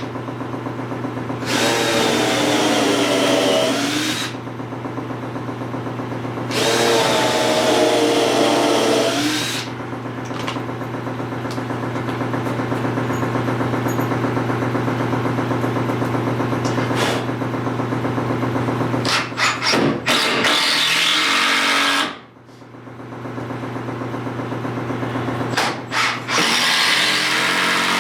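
Power drill running in several bursts, two strong runs and then a longer steadier one, followed by a few sharp clicks, over a steady low hum.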